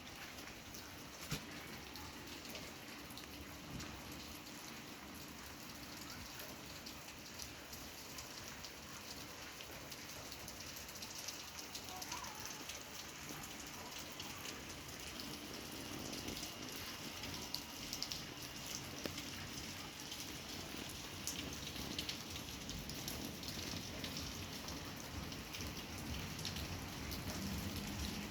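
Steady rain falling, with many small drop hits, growing a little heavier toward the end.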